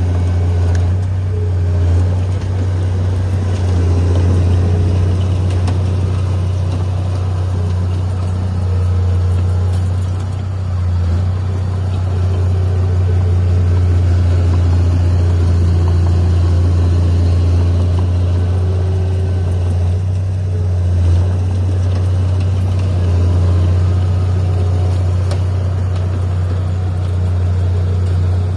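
Heavy earthmoving machinery's diesel engine running steadily with a deep, constant drone that dips briefly a few times.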